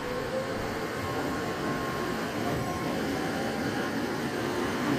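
Electric train running along the track, a steady rumble of wheels on rails.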